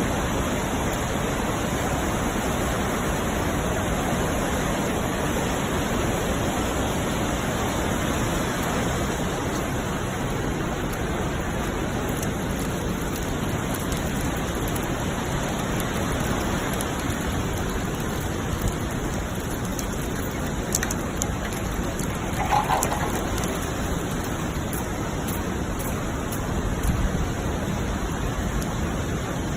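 Steady rushing noise of heavy typhoon rain and flooding water, with a few brief clicks and a short faint tone about three-quarters of the way through.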